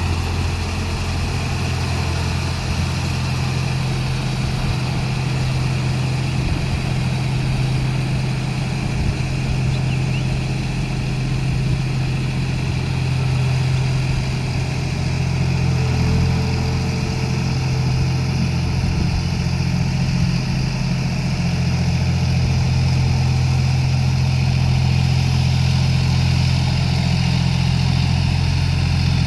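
John Deere 5050D tractor's three-cylinder diesel engine running steadily, a little louder in the last third.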